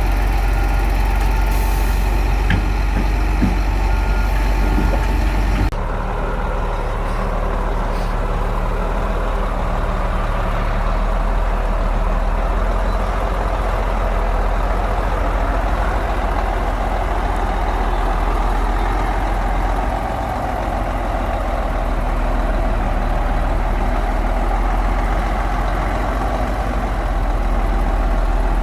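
Heavy bulldozer's diesel engine running steadily at work, with a strong low hum. A reversing alarm beeps repeatedly through the first few seconds. The sound changes abruptly about six seconds in, and a steady engine continues after that.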